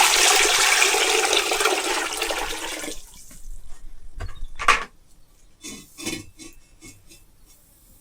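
A rush of water lasting about three seconds that stops abruptly, followed by a few scattered light knocks.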